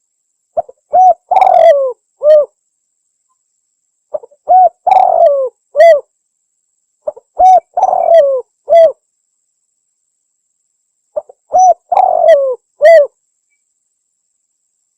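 Spotted dove (tekukur) cooing: four phrases in turn, each a few short coos around a longer falling coo, with a silent gap of about two seconds between phrases. The phrases are played on loop as a lure call.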